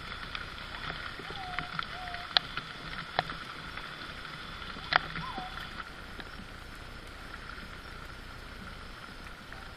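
Steady outdoor background hiss with a few sharp knocks in the first half, the loudest about five seconds in, and a few short curved call-like sounds among them.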